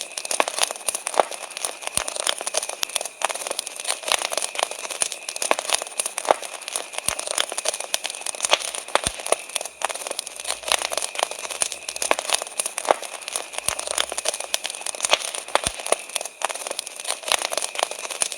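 Wood fire crackling, with many irregular pops and snaps over a steady hiss, and a faint steady high trill of crickets underneath.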